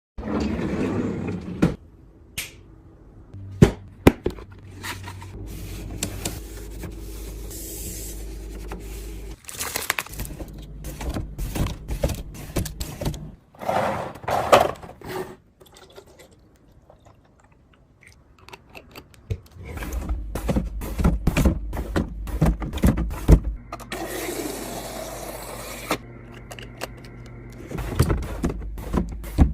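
Containers and food packages being handled, set down and slid onto fridge shelves: a run of clicks, knocks and scrapes. The background changes abruptly several times as short clips are cut together.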